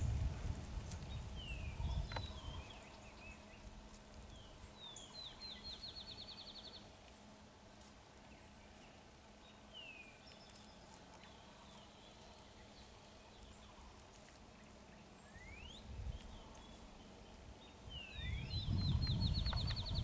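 A songbird singing: a short phrase of a few down-slurred notes followed by a fast, high trill, given about five seconds in and again near the end, with single chirps and a rising whistle between. A low rumble is loudest at the start and near the end.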